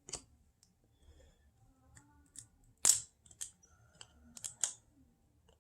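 Topps basketball trading cards being handled and flipped through one at a time, giving a few short, sharp snaps of card stock. The loudest comes about three seconds in, and several close together come near the end.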